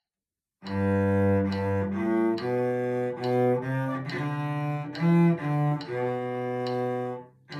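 Solo cello playing a slow bowed melody of held notes, starting just after half a second in.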